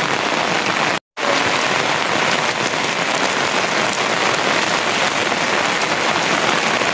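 Steady rain falling, a dense, even hiss, with a split-second cut to silence about a second in.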